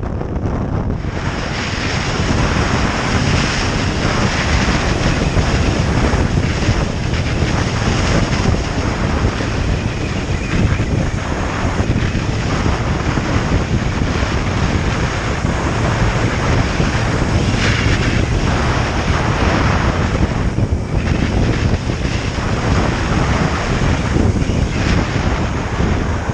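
Wind rushing over the microphone of a moving motorcycle, a steady loud roar with the bike's engine and road noise underneath.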